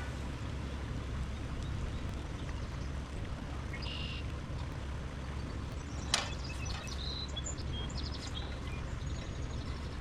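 Small birds chirping over a steady rushing background: one chirp about four seconds in and a few short ones around seven to eight seconds, with a single click about six seconds in.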